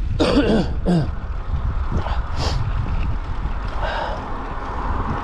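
Wind buffeting the camera's microphone while riding, a steady low rumble. A short, breathy vocal sound comes near the start, with fainter breathy sounds later.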